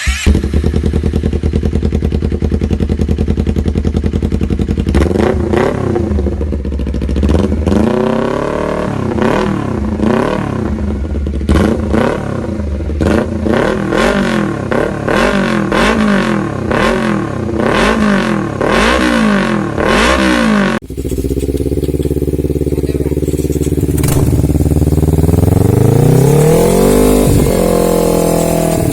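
Motorcycle with an aftermarket racing exhaust idling, then revved in quick blips over and over, each rising and dropping back within about a second. After a sudden cut it idles again and is revved once more near the end.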